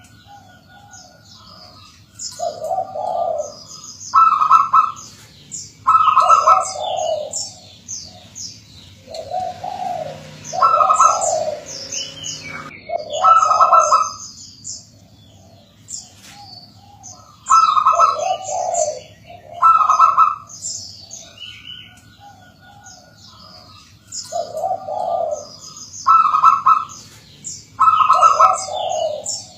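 Zebra doves (perkutut) cooing in short phrases of a few low, mellow notes, repeated every few seconds. Small birds chirp high and fast throughout.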